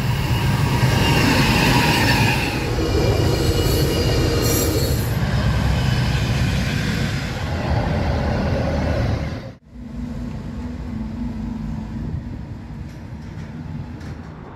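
Trains running past at close range, the first with high-pitched wheel squeal over heavy rumbling; about two-thirds of the way in it cuts abruptly to diesel locomotives running by with a steady low engine tone.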